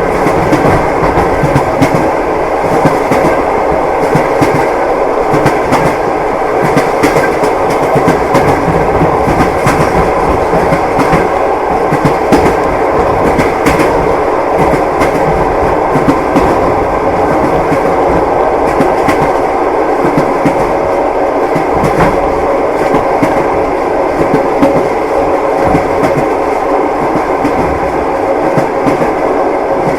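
Train wheels clattering over the rails, a continuous rumble of the moving carriage with frequent sharp clicks.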